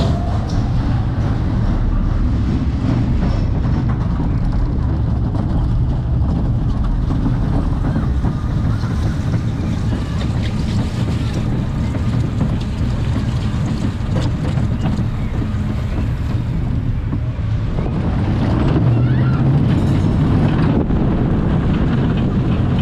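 Mine-train roller coaster running along its steel track heard from on board: a steady rumble of the train's wheels, with wind buffeting the microphone. It gets louder about three-quarters of the way through.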